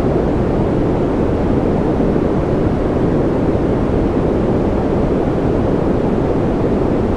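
Continuous white noise for infant sleep: an even, unchanging rushing hiss with its weight low, deep rather than bright.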